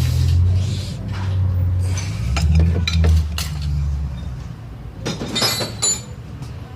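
Metal hand tools clinking against engine parts in scattered taps, with a quick cluster of ringing clinks about five seconds in. A low steady hum runs underneath and fades out around four seconds in.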